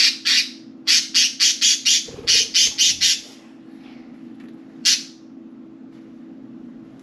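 Budgerigars giving short, harsh squawking calls in quick succession, about four a second, for the first three seconds, then a single call about five seconds in. A steady low hum runs underneath.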